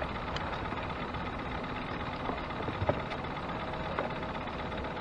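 Steady outdoor noise with the faint hum of a distant motorboat engine, and a couple of light knocks a little past the middle.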